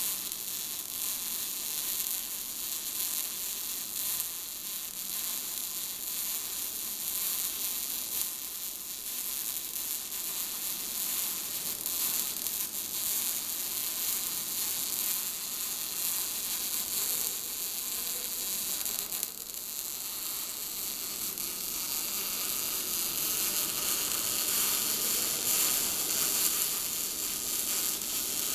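Gas-shielded arc welding: the arc sizzles and crackles steadily as the torch is drawn along a weld joint.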